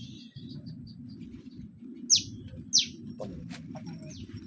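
Two loud, sharp bird chirps, each a quick downward sweep, about two seconds in and under a second apart, with a few faint chirps around them over a steady low rumble.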